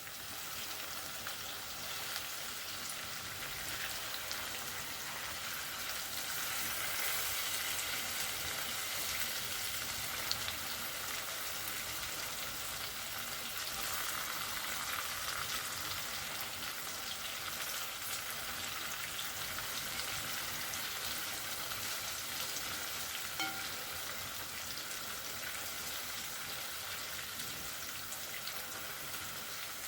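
Chicken frying in a pot on the stove: a steady sizzle throughout, with a couple of faint clicks.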